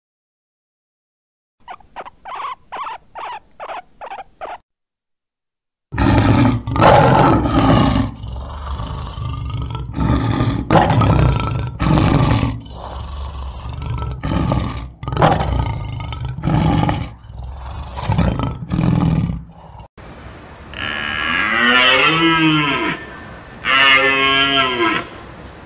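A Eurasian red squirrel gives a quick run of about eight short calls. Then a lion roars loudly, a long series of roars about a second apart. Near the end, a red deer stag gives two long bellows that rise and fall in pitch.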